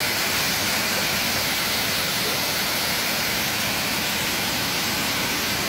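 Waterfall pouring heavily after rains: a steady, even rush of falling water.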